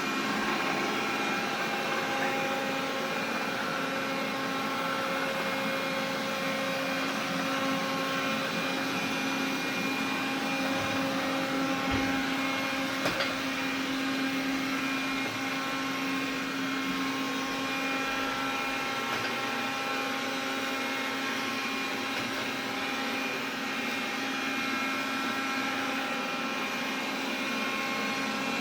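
Xiaomi vacuum cleaner running steadily, a motor whine of several steady tones over the rush of air; this is the extraneous noise the owner is complaining about. A brief tap about thirteen seconds in.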